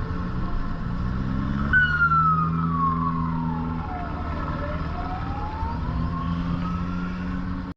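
An emergency vehicle's siren wailing, one slow sweep falling in pitch and then rising again, starting about two seconds in, over steady car engine and road rumble.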